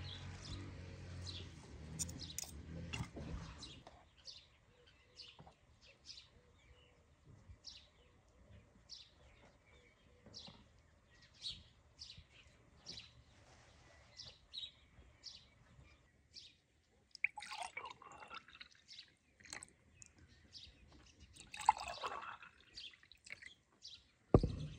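Birds chirping again and again, short high chirps every half second to a second. A low hum runs through the first few seconds, and a sharp low thump comes just before the end.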